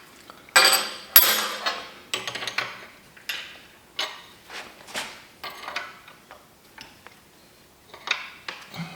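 Hand tools clanking and clinking against steel hydraulic fittings while a hose fitting is snugged up: a dozen or so separate metallic strikes with a brief ring, the loudest about a second in, thinning out in the second half.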